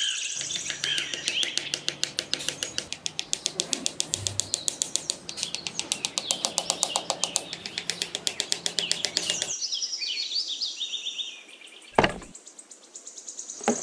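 Small birds chirping and tweeting over a fast, even clicking of about five clicks a second, which stops abruptly about two-thirds of the way through. A single sharp knock near the end.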